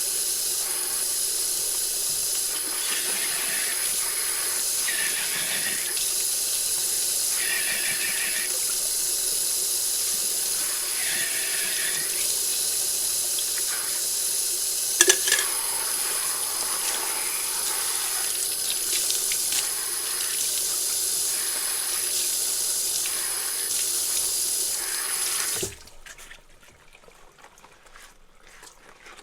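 Tap water running steadily into a kitchen sink while dishes are washed, with one sharp clink of a dish about halfway through. The water is shut off abruptly near the end, leaving near quiet.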